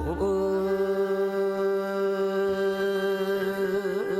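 Male voice singing sijo, Korean classical sung poetry, holding one long note at a steady pitch that bends slightly near the end.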